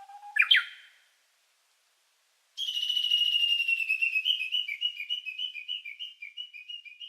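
Small songbird singing: a long low whistled note ending in a quick rising flourish, then after a short pause a long trill of fast repeated notes that slows into separate chirps near the end.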